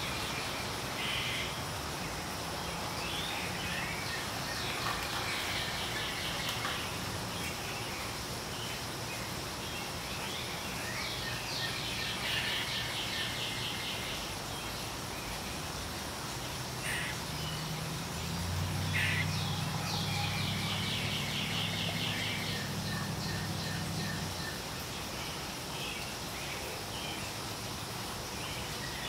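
Wild birdsong in woodland: a rapid trill of repeated high notes, each lasting a few seconds, comes three times, with scattered short chips between. A low hum rises and fades in the middle.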